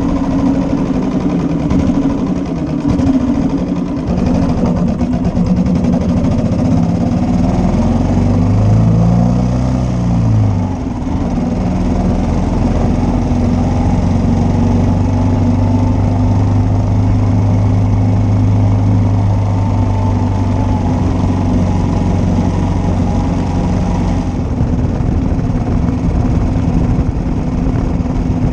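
1941 Matchless G3L's single-cylinder engine running on the move. Its note rises and falls about eight to eleven seconds in, then holds steady.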